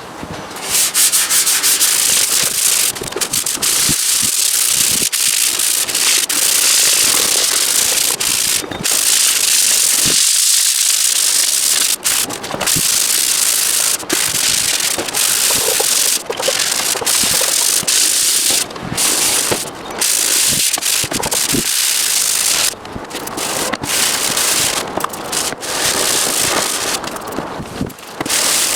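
Sanding: abrasive rubbing against a hard surface, with short pauses every few seconds.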